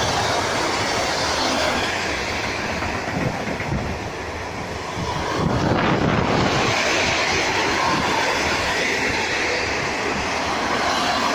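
Freight train of silo tank wagons rolling past at close range, a steady rumble of steel wheels running on the rails.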